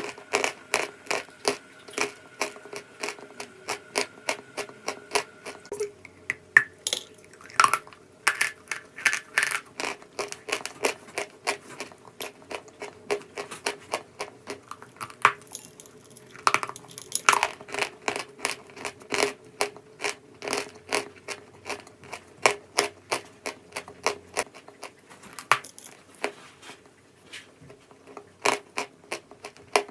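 Crunching of hard, brittle chalk: rapid sharp cracks and crackles a few times a second, some louder snaps standing out.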